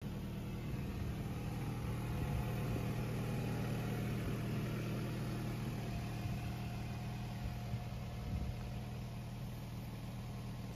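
Honda H22 four-cylinder engine idling steadily with an even low hum.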